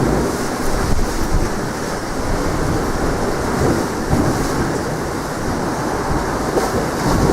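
Strong wind buffeting the microphone in a loud, uneven rumble, over the steady rush of sea waves.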